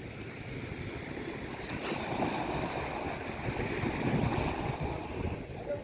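Sea waves washing on the shore, a steady rushing that swells louder about two seconds in.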